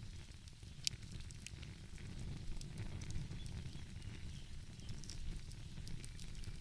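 Wood fire crackling, with scattered sharp pops and the loudest pop about a second in, over a steady low rumble.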